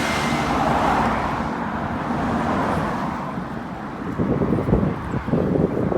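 Road traffic, with a vehicle passing by that swells and fades over the first couple of seconds. Irregular low thumps on the microphone come in the last two seconds.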